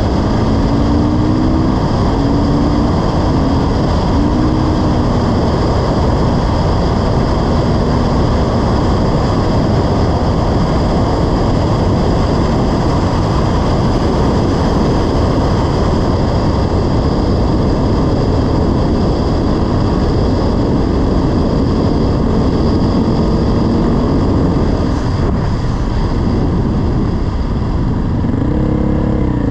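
Dirt bike engine running while riding, its pitch rising and falling with the throttle a few times, under heavy wind rush on the microphone.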